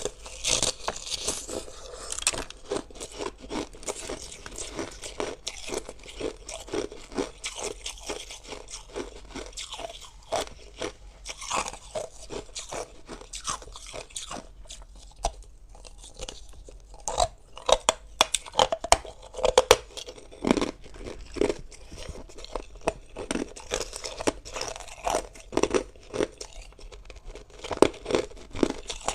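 Hard ice being bitten and chewed close up: irregular sharp crunches and cracks, coming thicker and louder in the second half.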